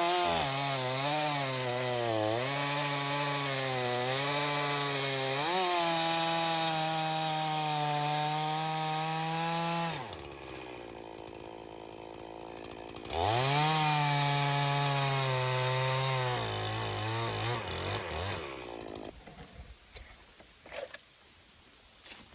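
Gas chainsaw cutting through a poplar log, its engine pitch dipping and recovering under load. About ten seconds in it drops to idle for a few seconds, then revs up and cuts again, and near the end it winds down and stops.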